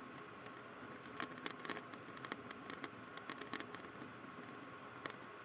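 Faint steady hiss with a thin high hum, broken by scattered sharp clicks at irregular intervals: background noise on the aircraft's headset intercom audio feed.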